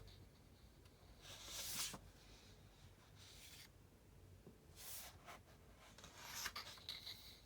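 Quiet paper rustling as book pages are handled and turned: a series of soft swishes, the loudest about two seconds in and another cluster with small clicks near the end.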